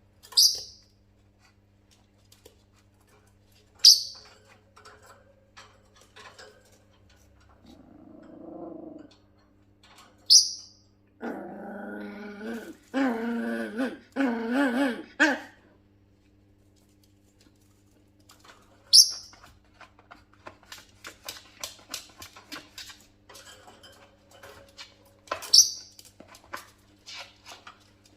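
A dog whining and whimpering, with a long wavering whine of several seconds in the middle. Several short, sharp, high-pitched sounds stand out as the loudest events. Many light clicks and taps come in the latter part.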